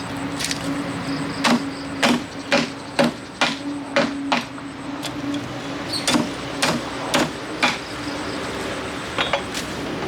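A cleaver chopping a fish on a cutting board: a run of sharp chops about two a second, pausing briefly midway, over a steady low hum.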